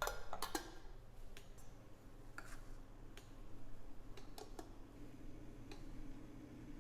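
Scattered light clicks and taps, about eight at uneven intervals, over a faint steady low hum.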